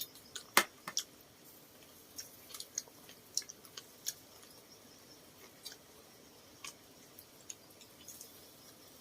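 Eating sounds during a meal: scattered wet clicks and smacks of chewing, the sharpest about half a second in.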